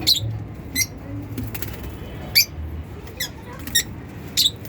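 Lovebirds giving short, sharp, high-pitched chirps, about six of them at irregular intervals, over a low steady background hum.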